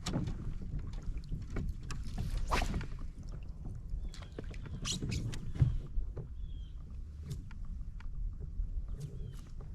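Handling sounds of a kayak on the water: scattered knocks and clicks of gear and paddle against the hull over a low wind rumble, with one sharper knock a little past halfway. A few short high chirps come in the second half.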